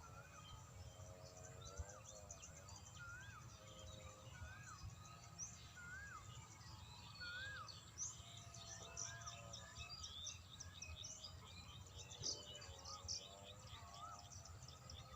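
Faint birdsong: one bird repeating a short rising-and-falling whistle about once a second, with high chirps from other birds around it.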